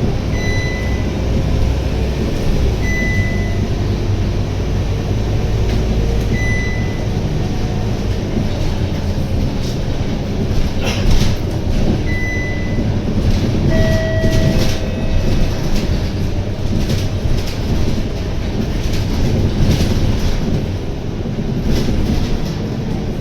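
Scania K230UB bus's 9.3-litre Scania DC9 diesel engine and drivetrain running steadily under way, heard inside the cabin, with several short high electronic beeps.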